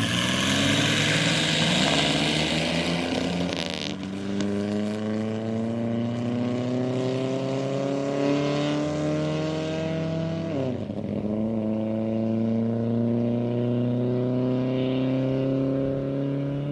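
A land-speed racing vehicle's engine accelerating hard, its pitch climbing steadily through a gear. There is one gear change about eleven seconds in, after which it climbs again. A loud rushing noise covers the first four seconds.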